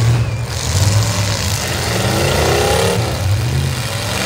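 Several demolition derby cars' engines running together at a steady rumble, with one engine revving up, its pitch rising for about a second around the middle.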